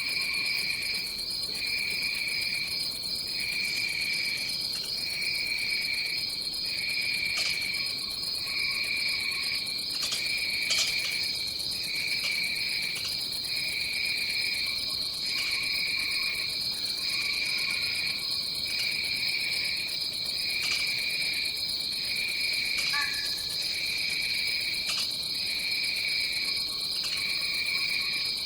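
Tropical rainforest insect chorus: a steady high-pitched trill, with a lower call that pulses on and off about once every second and a bit. Occasional short chirps or clicks sound over it.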